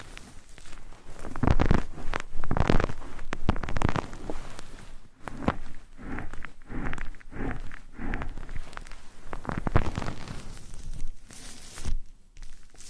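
Close-miked ASMR trigger sounds: irregular scratching, rustling and sharp clicks right at the microphone, in uneven clusters, loudest in the first few seconds.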